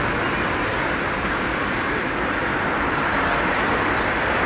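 Steady outdoor background noise, an even hiss-like din with no distinct events.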